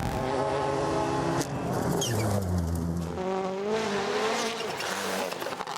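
Rally car engine at high revs: its pitch holds, drops about a second and a half in, runs low for a moment, then climbs and falls again.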